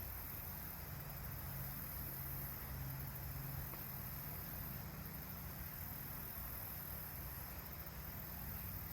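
Steady high-pitched chirring of crickets or similar insects, over a faint low rumble.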